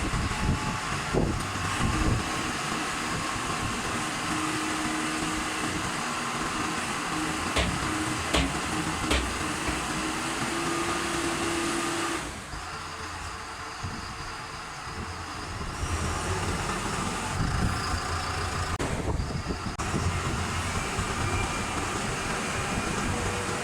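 Self-loading concrete mixer truck running, a steady mechanical noise with a few sharp knocks. The sound changes abruptly and turns quieter about halfway through, then picks up again a few seconds later.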